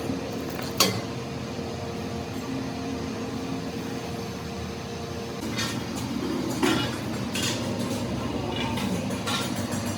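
Heavy-machinery workshop noise: a steady machine hum with a few sharp metal knocks and clinks, the loudest about a second in and several more in the second half.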